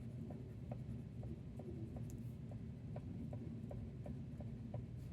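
Drawing tool on paper making quick short strokes, a faint tick with each stroke about two or three times a second, over a low steady hum.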